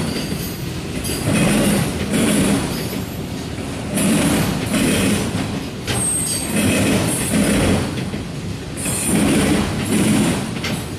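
Freight train of auto rack cars rolling past close by: steel wheels running on the rail, swelling and fading about once a second as the wheel sets go by. A brief faint high wheel squeal comes about six seconds in.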